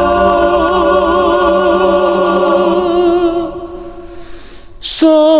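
A singer holding a long sung note with vibrato, which fades away about three and a half seconds in; near the end a short hiss of a consonant opens the next sung line.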